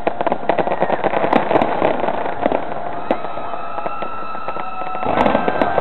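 Aerial fireworks display: dense, rapid crackling and popping of bursting shells, with steady high whistling tones coming in about three seconds in and a louder cluster of bangs near the end.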